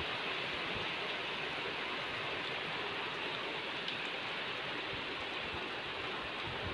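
Heavy rain pouring steadily onto flooded, muddy ground: an even, unbroken hiss.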